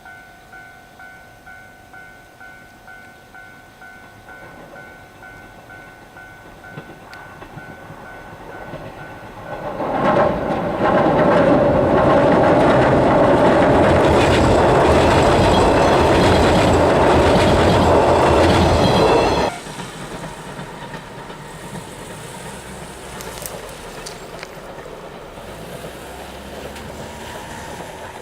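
A 113-series electric train crossing a steel railway bridge: a loud rumble and clatter of wheels on the bridge for about ten seconds, which cuts off suddenly. Before it arrives, a level-crossing bell rings faintly and evenly, about one and a half strikes a second.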